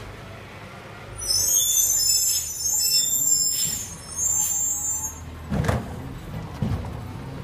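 Recycling garbage truck with its engine running, and a loud high-pitched metallic squeal of several tones lasting about four seconds. Two dull thumps follow near the end.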